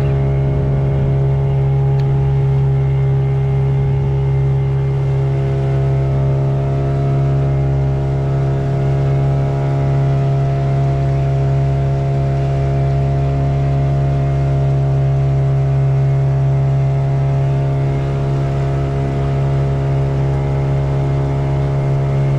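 Motorboat engine running steadily at an even speed, a loud low drone whose pitch holds the same throughout.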